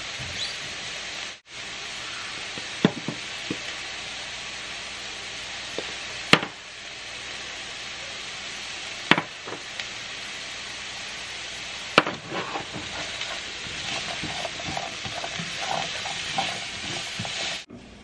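Diced carrots and onion sizzling steadily in a skillet, with a few sharp knocks against the pan.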